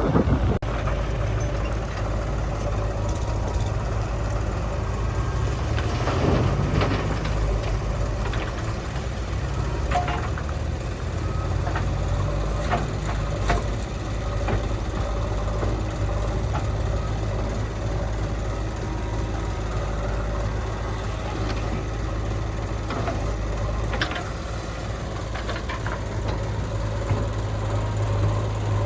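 Heavy diesel earthmoving machinery running steadily at a low pitch, with a few scattered knocks and clanks.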